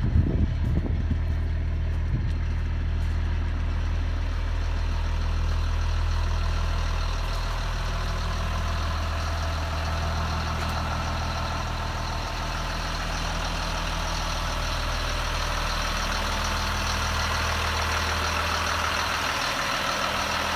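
Caterpillar C7 inline-six diesel engine of a school bus idling steadily.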